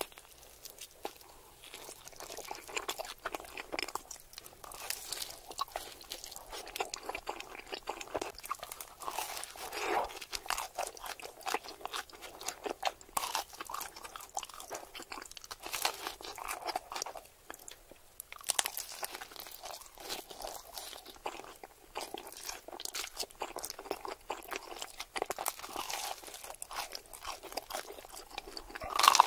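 Close-miked chewing and biting of pepperoni pizza and its crust: a dense, irregular stream of crunching crackles and mouth sounds, with a louder crunch near the end.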